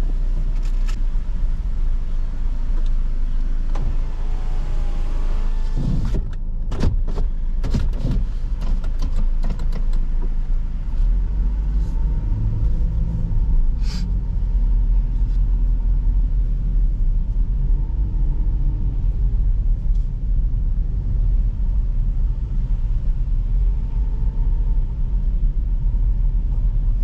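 Car driving, heard from inside the cabin: a steady low engine and road rumble, with a short run of clicks and knocks about six to eight seconds in.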